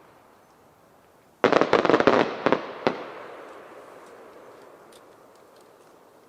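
Aerial firework shell bursting. About a second and a half in comes a sudden cluster of sharp cracks and pops that lasts about a second and a half, then a long echo fades away.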